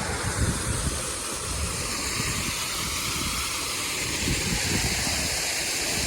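Steady rushing noise of fast-flowing river water at the falls, with wind gusting against the microphone underneath.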